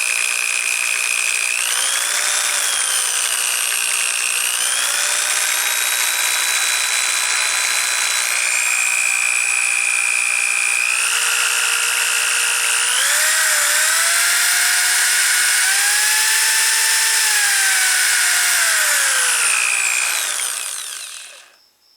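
Electric drill running, spinning a motorcycle's gear-drive mechanical tachometer to test it after lubrication. Its whine shifts up and down in pitch a few times, then winds down and stops about a second before the end.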